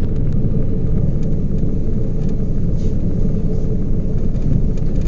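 Steady low rumble of a ship's engine and hull vibration while under way, with a faint constant hum in it.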